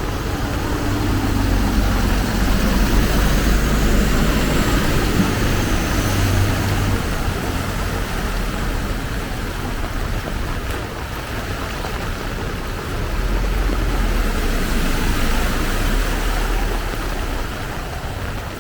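Heavy rain pouring down, with a motor vehicle's engine running close by. Its low hum is loudest over the first seven seconds and comes up again about two-thirds of the way in.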